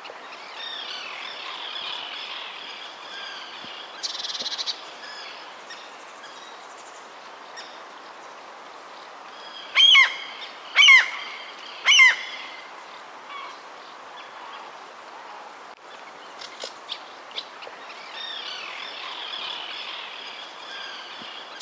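Birds calling and chirping over a steady background hiss of outdoor ambience. Three loud, pitched calls about a second apart stand out near the middle.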